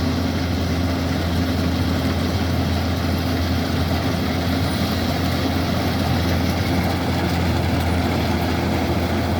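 Kubota DC-105X combine harvester's diesel engine running steadily, with a deep even hum.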